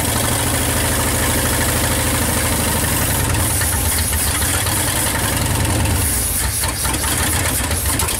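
1959 Ford Custom 300's 292 V8 running on its first start in 46 years, kept going on gas fed to the carburetor, with the muffler fallen off. It runs steadily at first, then grows uneven near the end.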